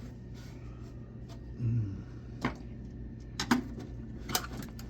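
A few sharp clicks and taps, roughly a second apart, of a small screwdriver prying at the plastic clips that hold a computer's front panel.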